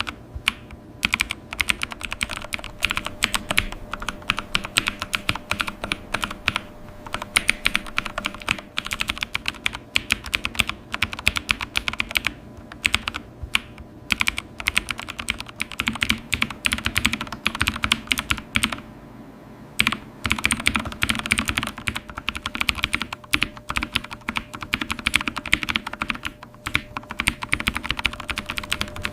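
Typing on a computer keyboard: rapid, continuous key clicks that stop briefly about two-thirds of the way through.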